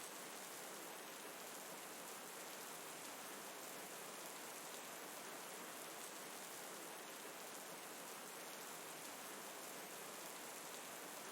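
Steady rain falling, a faint, even hiss that does not change.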